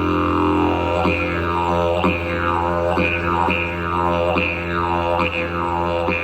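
Didgeridoo played as a continuous low drone with sweeping overtones and rhythmic accents about once a second, imitating a kangaroo.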